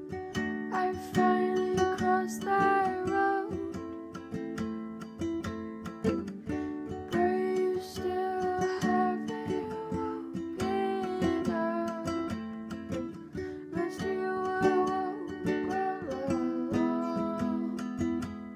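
A strummed ukulele plays chords in a steady rhythm under a wavering melody line with vibrato, in a rough home recording of a song draft.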